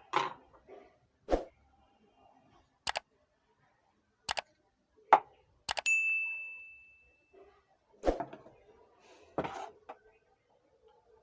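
Small tools and parts being handled on a repair bench: a series of separate sharp clicks and knocks. About six seconds in, a metal object strikes and rings with a clear high ding that fades over about a second and a half.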